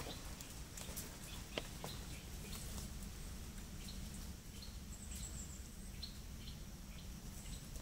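Faint woodland ambience: scattered short bird chips and a thin, high whistle heard twice, over a low rumble, with one sharper click about a second and a half in.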